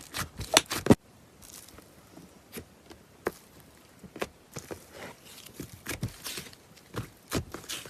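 Slime being squeezed and poked by hand, giving irregular sharp pops and crackles. The sound changes abruptly about a second in, from dense popping to sparser pops with short crackly stretches.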